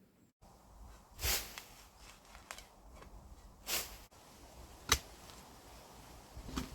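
A few short scuffs and one sharp click, spaced a second or more apart, like something being handled.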